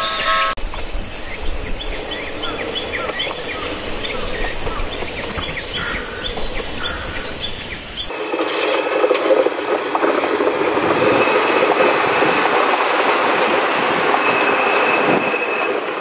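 Train running on rails: a steady hiss with short chirps over it for the first half. About halfway through it switches abruptly to a louder, fuller running noise with a faint high steady tone.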